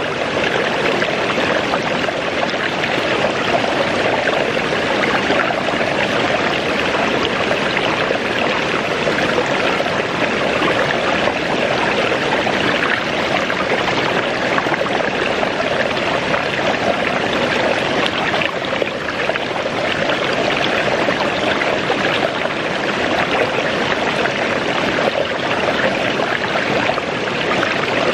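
Waterfall and its rushing stream: a steady, dense rush of falling and running water.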